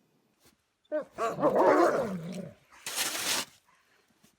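A dog vocalising in a long, wavering call that falls in pitch at its end, starting about a second in. A short hissing burst follows about three seconds in.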